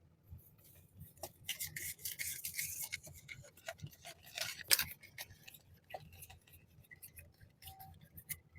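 Scratchy rustling and crinkling of packaging being handled and opened by hand, with scattered clicks and taps and one sharp snap a little before the five-second mark.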